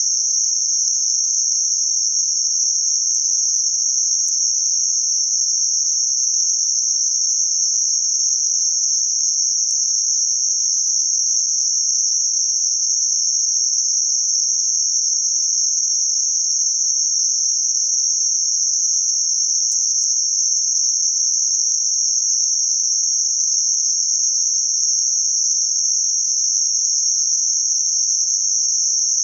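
Synthetic noise confined to a narrow band centred around 6051 Hz: a steady high-pitched hiss that does not change.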